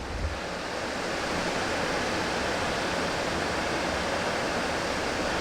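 River water rushing over and between boulders: a steady, even hiss that grows a little louder over the first second or so, then holds.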